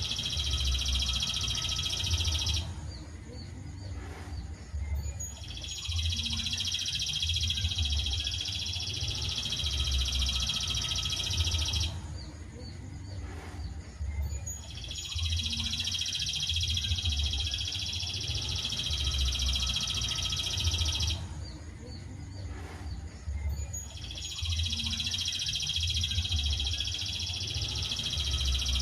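A looped recording of a bird's high, dense trill, used as masteran song for training cage birds. Each trill lasts about six seconds, with a pause of about three seconds between, and it repeats the same each time, three times over. Faint chirps fill the pauses.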